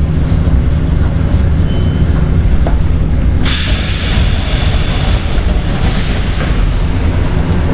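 Seoul Metro 1000-series resistor-control electric train heard on board: a steady low rumble, with a sudden loud hiss starting about three and a half seconds in and lasting about two seconds before easing to a fainter hiss.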